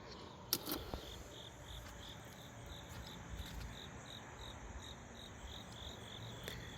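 A high chirp repeating evenly, about three times a second, with two sharp clicks about half a second in.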